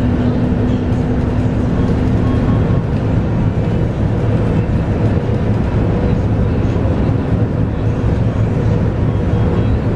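Scania K230UB bus under way, heard from inside the cabin: its Scania DC9 five-cylinder diesel runs with a steady low rumble. A faint thin whine sits over it and shifts in pitch about halfway through.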